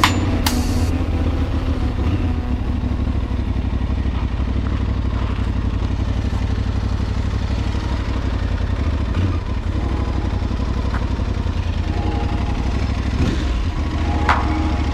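Aprilia Tuareg 660 parallel-twin motorcycle engine running steadily.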